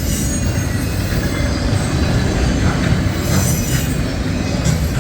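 Cars of a loaded autorack freight train rolling past: a steady rumble of steel wheels on rail, with a high wheel squeal near the start and again a little past the middle.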